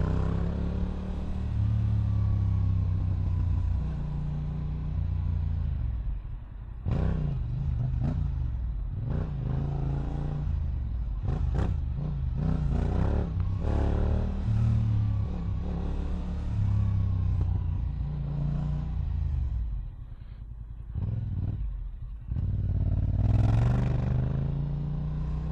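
Yamaha R7 parallel-twin with an Akrapovic exhaust, heard from the rider's position, running in traffic. The engine note rises and falls over and over with the throttle, broken by a few brief drops when it is let off.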